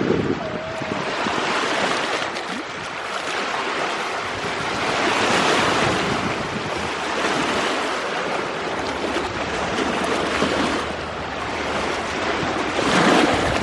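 Sea waves washing in and breaking: a continuous rush of surf that swells and eases over several seconds. Wind buffets the microphone with low rumbles near the start and again near the end.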